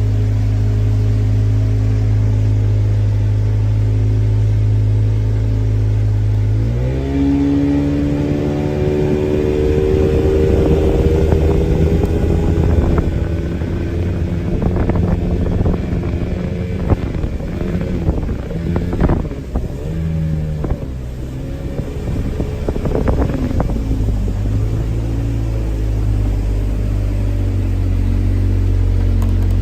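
Speedboat engine running at a steady pitch, then throttled up about seven seconds in with a rising pitch. In the middle stretch there are repeated knocks and splashes as the hull hits the water. Near the end it settles back to a steady drone.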